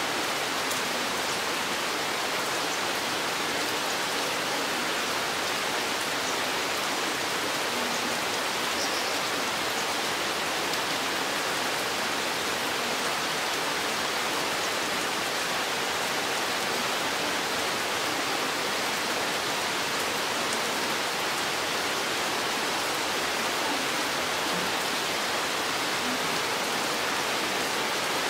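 Rain falling steadily in a forest: an even, unbroken hiss of drops with no single hits standing out.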